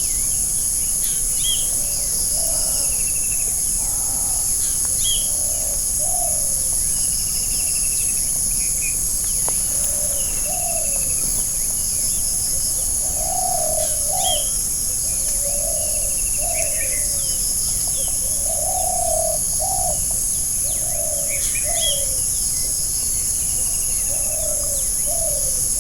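Forest birdsong: short low calls, often in pairs, repeat every second or two, with scattered higher chirps. Under them runs a loud, steady, high-pitched insect drone.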